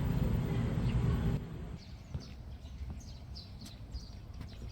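Outdoor ambience: a steady low rumble of background noise, which drops away abruptly about a second and a half in. It leaves a quieter forest background with small birds chirping, many short high calls.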